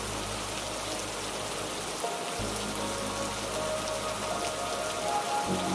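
Steady, even rainfall pattering on hard surfaces. Faint sustained tones join softly about halfway through.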